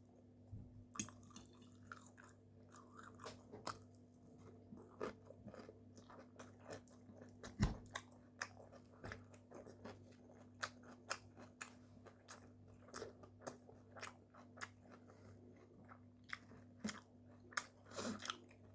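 Close-miked chewing and biting of food, with many short irregular crunches and mouth clicks and one stronger bite about eight seconds in. A faint steady low hum runs underneath.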